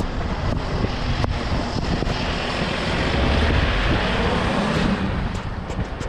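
Wind buffeting the microphone, a rumbling rush with a few light clicks, swelling louder in the middle for a few seconds.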